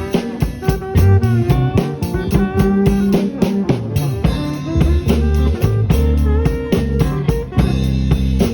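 A band playing a slow blues in G: guitar with bent notes over a drum kit and a low bass line.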